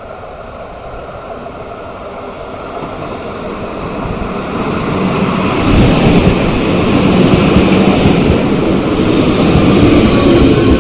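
Narrow-gauge X10-type electric commuter train running on the rails. The rumble grows louder over the first six seconds, then stays steady.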